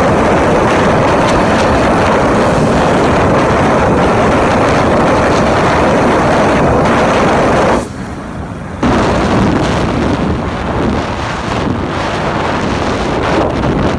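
Heavy wind buffeting the microphone on a moving vehicle, with the vehicle's running noise underneath. It dips briefly about eight seconds in, then comes back gusting unevenly.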